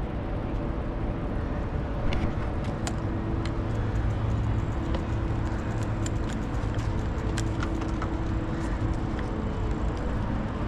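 Steady wind and road noise while riding a bicycle, with light clicks and rattles scattered throughout and a constant low hum underneath.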